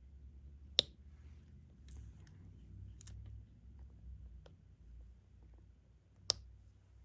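Sparse light clicks and taps of a diamond-painting pen setting small drills onto the adhesive canvas, with two sharper clicks, one about a second in and one near the end.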